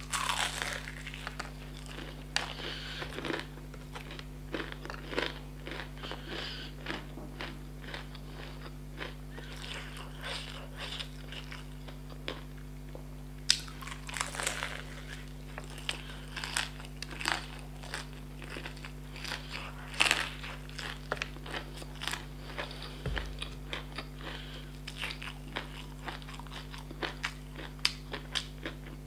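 A person biting and chewing crispy fried chicken close to the microphone: a continuous run of crackling crunches from the battered crust, with a few louder bites about halfway through and again a few seconds later.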